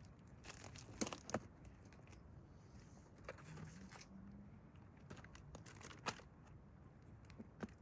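Quiet handling sounds: a few light clicks and crinkles, the sharpest about a second in and again near the end.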